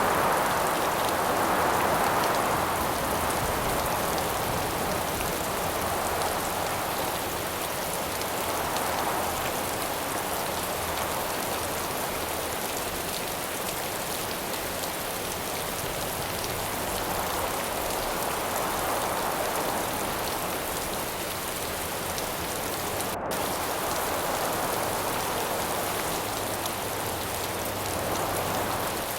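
Steady rain falling, with wind rising and easing in slow gusts every several seconds.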